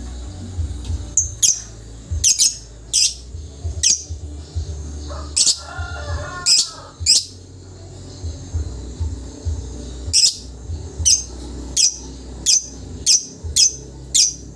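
A lovebird calling over and over with short, sharp, high-pitched chirps, about one or two a second, with a brief stretch of lower warbling chatter about midway.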